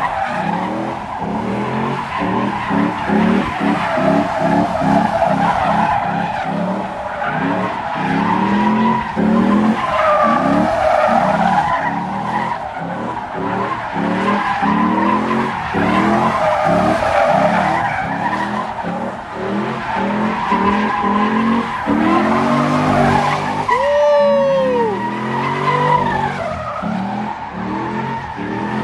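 Car tyres squealing continuously while the engine revs hard again and again, as in donuts or a burnout.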